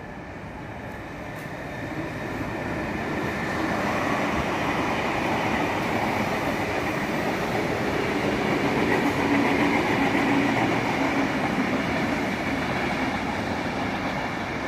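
Sydney Trains electric train running through the station, growing louder over the first few seconds and then holding steady as a continuous rumble and whine of wheels and motors, easing slightly near the end.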